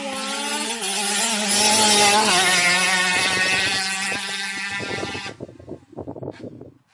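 Motorbike engine revving, its pitch climbing over the first two seconds, then running loudly before cutting off sharply about five seconds in. Irregular low rumbling follows near the end.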